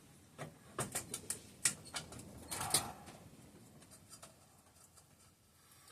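Light metal clicks and taps of a bolt being turned in by hand on a small engine's sheet-metal cover; the bolt binds partway in. A quick run of clicks in the first three seconds, then it goes nearly quiet.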